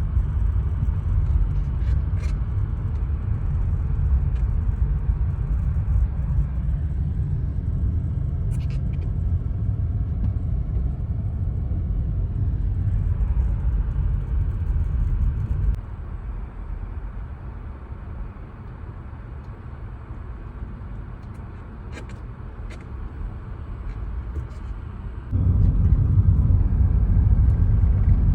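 Low, steady rumble of a car driving on the road. It drops away suddenly about halfway through and comes back just as suddenly near the end, with a few faint clicks.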